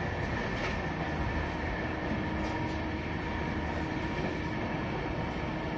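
Steady running noise of a passenger train at speed, heard from aboard a Tejas coach, with a faint steady hum underneath.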